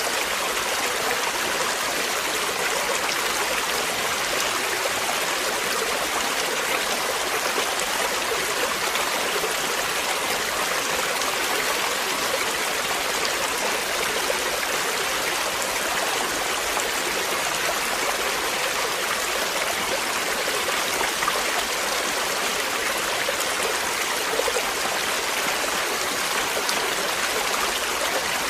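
Flowing water, like a stream over rocks, as a steady, even rush of noise that does not change.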